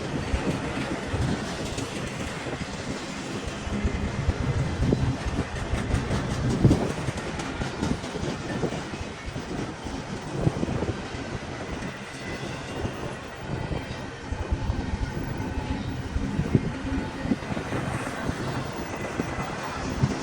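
A train rolling past with a steady rumble, its wheels clacking irregularly over rail joints.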